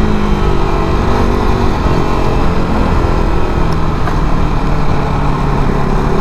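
KTM RC 390's single-cylinder engine pulling away and running under way, heard from the rider's position with heavy wind rush over the microphone; the engine note settles into a steady low tone about halfway through.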